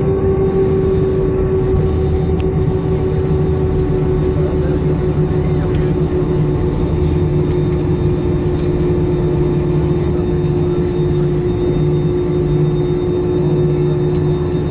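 Jet airliner cabin noise: a steady engine drone and low rumble, with one prominent tone drifting slightly lower in pitch.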